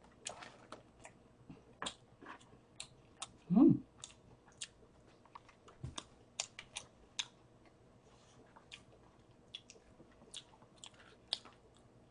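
Eating sounds: chewing with many short, sharp mouth clicks and smacks scattered throughout, and one brief low 'mm'-like voice sound about three and a half seconds in, the loudest moment.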